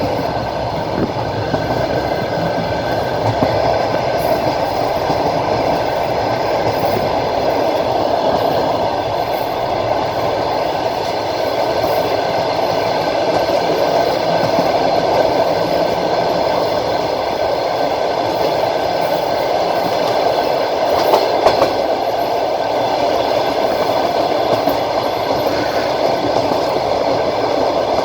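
Train wheels running on the rails, heard from a carriage window: a steady rumbling clatter of the moving train, with a brief louder rattle about two-thirds of the way through.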